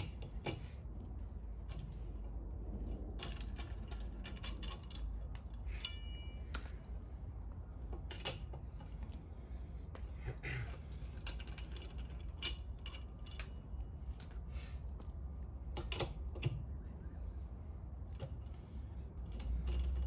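Lug nuts and a lug wrench on a car wheel clinking and clicking irregularly as the lug nuts are loosened and taken off, with one brief metallic ring about six seconds in.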